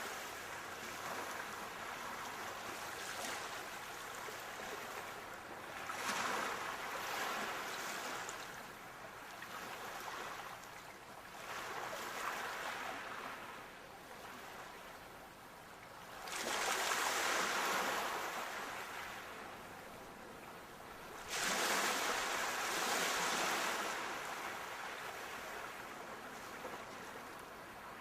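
Sea waves breaking and washing on the shore, surging in several swells a few seconds apart, with the two biggest in the second half.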